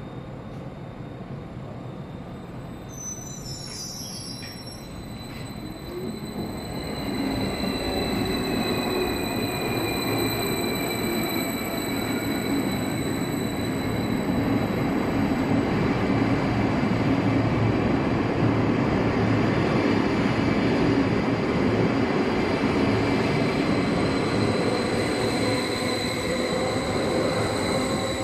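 A train running through the station with its wheels squealing in a steady high whine over the rumble of the cars. It grows much louder about six seconds in and stays loud.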